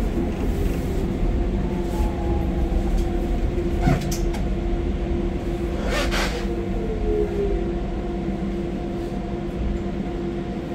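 Docklands Light Railway train pulling out of a station and running on, heard from on board: a steady low rumble with a held hum and a couple of falling tones, and two sharp clicks about four and six seconds in.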